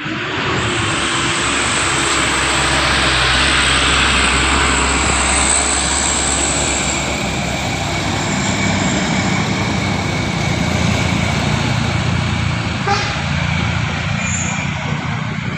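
Truck engine running steadily and hard, with a steady high whine over it, growing louder over the first few seconds.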